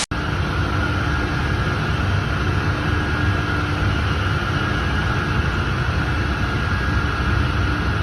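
Steady low machinery rumble with a faint continuous hum, typical of running plant equipment, starting abruptly just after a cut.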